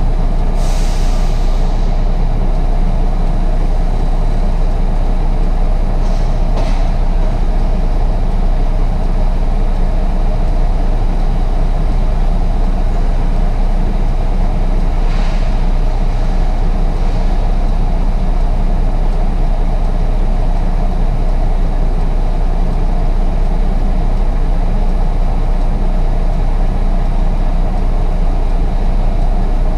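Heavy truck engine running steadily with a low rumble, broken by a few brief hisses.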